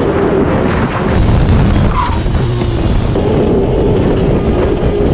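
Sport motorcycle engine running at speed, with heavy wind rush over the microphone.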